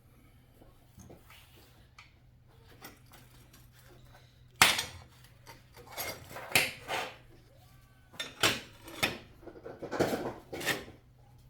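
Metal pieces clinking and knocking together in quick clusters, starting about halfway through, over a low steady hum that stops about two-thirds of the way in.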